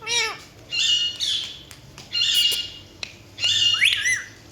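Pet parrot squawking: a short pitched call at the start, then three loud harsh squawks about a second apart.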